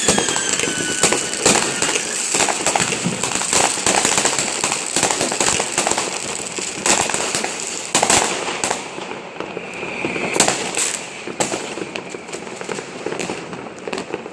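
New Year's fireworks: a dense barrage of firecracker and rocket bangs crackling at once, with a falling whistle in the first two seconds. The barrage thins out after about eight seconds, leaving scattered bangs.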